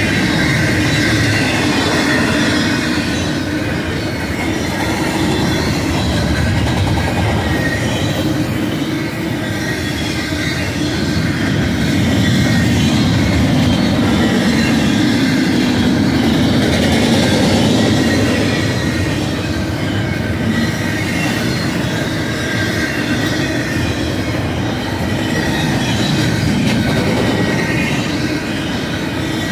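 Double-stack intermodal well cars of a freight train rolling past on the mainline: a continuous rumble of steel wheels on rail, with faint steady high ringing tones above it. It swells a little about halfway through.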